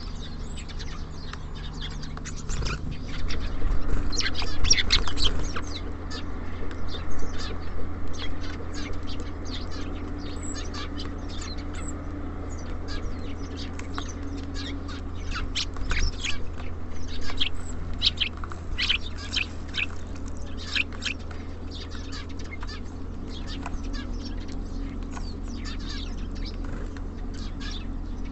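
Small songbirds at a bird feeder: many short, sharp chirps and taps, louder in busy bursts about four seconds in, around seven seconds and again from about seventeen seconds.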